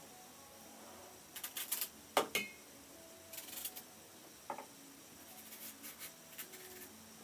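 Kitchen items being handled: scattered light knocks, clicks and short scrapes, the loudest knock about two seconds in.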